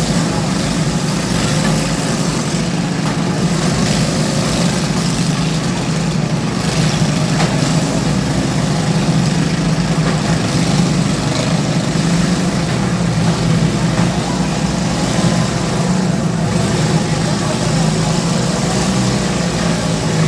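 Several lawn tractor engines running together in a steady drone during a lawn tractor derby heat, without letup.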